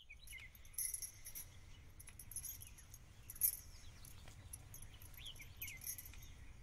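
Faint birdsong: scattered short high chirps and a few quick whistled glides, over a low steady rumble.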